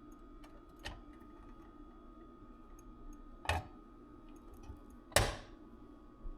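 A few short, sharp clicks and knocks, the loudest about five seconds in, over a low steady hum with a faint steady tone.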